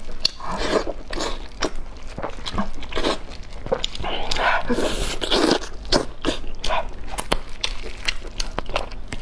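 Close-miked eating: wet chewing and lip smacks with many sharp mouth clicks as meat is bitten and pulled off a bone.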